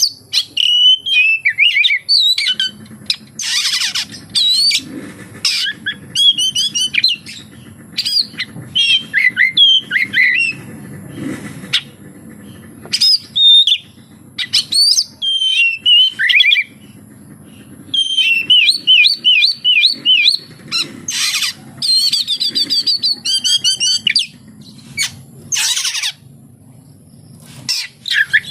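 Oriental magpie-robin (kacer) singing a loud, varied run of whistled phrases packed with mimicked calls of other birds, with short pauses between bursts and a fast string of repeated notes about two-thirds of the way through.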